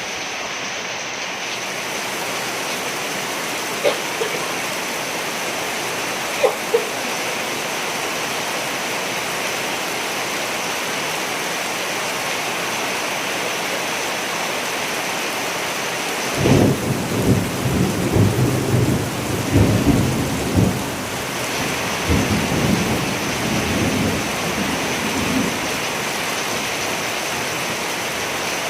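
Steady rain hissing down, with a rolling thunder rumble that breaks in about halfway through and dies away before the end. A few sharp taps sound over the rain early on.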